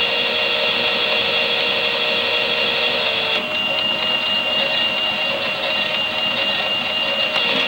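Toy Miele washing machine's small electric motor running steadily, a high whine held over a buzzing hum, its lower tone dipping slightly about three seconds in.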